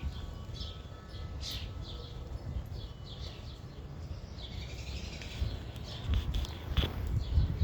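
Small birds chirping in short repeated calls over a low rumbling noise, which gets louder in the last couple of seconds along with a few knocks.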